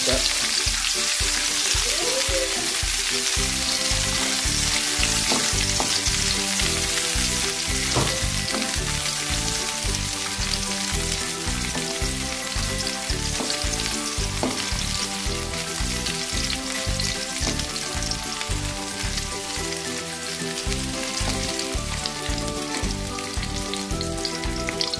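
Sliced onion, garlic and ginger sizzling steadily in hot oil in a steel wok, stirred with a spatula that clicks against the pan now and then, over background music with a steady beat.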